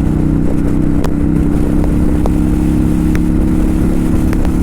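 Kawasaki Vulcan 900 Custom's V-twin engine running at a steady cruising speed, its note holding an even pitch, over a low rumble of road and wind noise.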